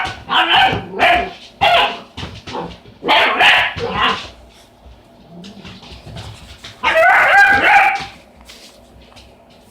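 Puppy barking and yipping in bursts: a quick run of short barks, another cluster a couple of seconds later, and one longer call about seven seconds in.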